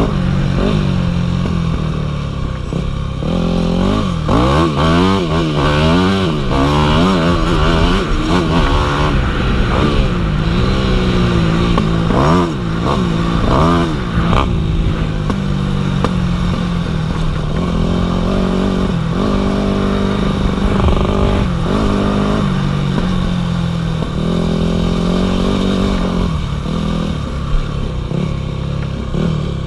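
Dirt bike engine running under way on a trail ride, its pitch swinging up and down quickly with the throttle for the first half, then running steadier.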